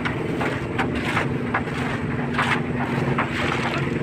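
Small concrete mixer machine's engine running steadily, with irregular scrapes and knocks over it.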